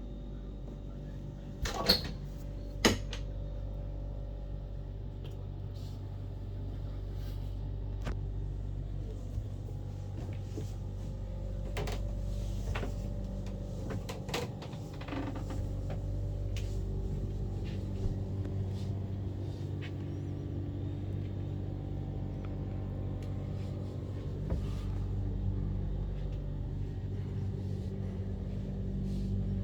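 A boat's engine running steadily at a constant low hum, with two sharp knocks about two and three seconds in and a few lighter clicks and bumps.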